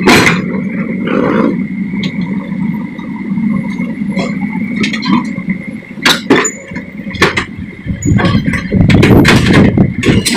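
Excavator diesel engine running steadily under load with a constant high whine, while sharp metallic clanks and knocks come repeatedly, growing louder and busier near the end.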